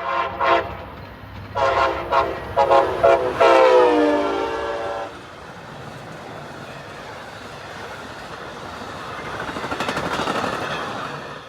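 Locomotive air horn sounding a series of blasts, the last one long and dropping in pitch as the train passes. The train's rumble follows, building and then fading away.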